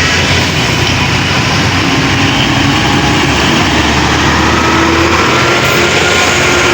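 Heavy truck engine running loudly and steadily with a low drone.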